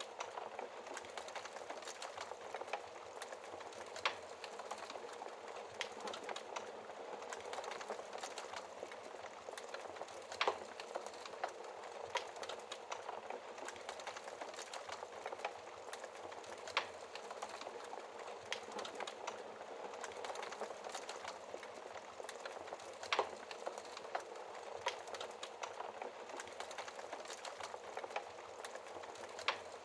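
Wood fire burning in a fireplace: a steady hiss thick with small crackles, and a sharper pop about every six seconds.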